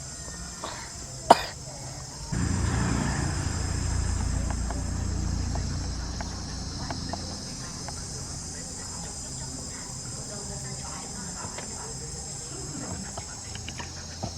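Steady high chirring of insects such as crickets, with a sharp click a little over a second in and a low rumbling noise from about two seconds in that fades after a few seconds.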